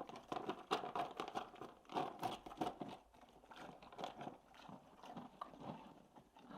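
A horse chewing hard treats, a quick run of crisp crunches that thins out and grows softer after about three seconds.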